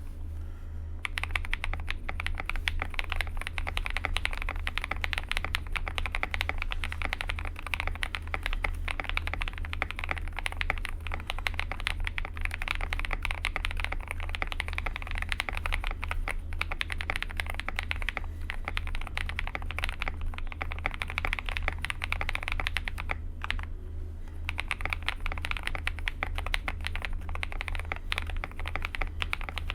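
Fast, continuous typing on a CIY Tester68 custom mechanical keyboard with lubed KTT Kang White linear switches, a steel plate, tape mod, foam and MOA keycaps. It starts about a second in and pauses briefly near the end, over a steady low hum.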